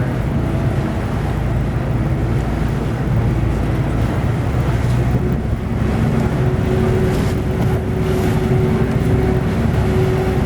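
Passenger ferry's engine running steadily under a low drone of water and wind noise; a steady hum comes in about halfway through.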